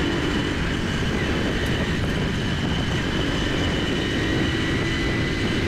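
Steady vehicle noise: a continuous rumble with a faint high-pitched whine running through it.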